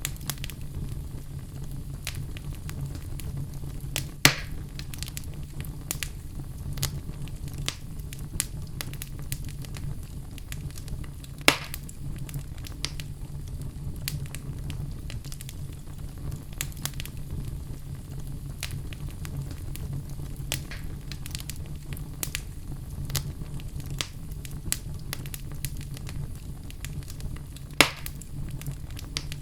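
Wood fire burning in a fireplace: a steady low rumble of flame with frequent small crackles of burning logs. There are three louder pops, at about four seconds, at about eleven seconds and near the end.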